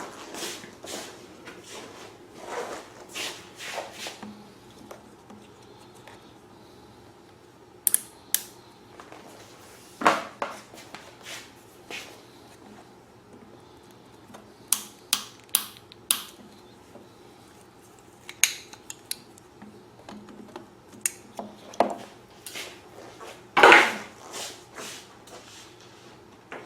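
Scattered clicks, taps and knocks of hands working with tools, hose and small fittings on a generator's fuel line. The loudest knock comes near the end.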